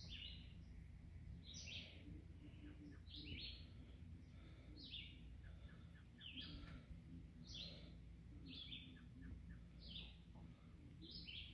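Faint bird chirping: short, high calls that drop in pitch, repeated about once a second, over a low steady background rumble.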